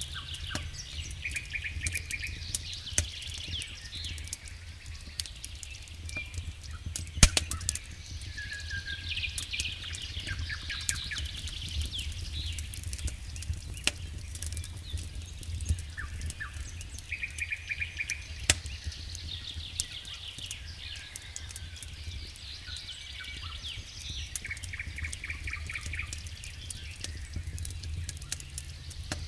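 Campfire crackling with scattered sharp pops, the loudest about seven seconds in, over a steady low rumble, while small birds chirp in short high trills that come and go.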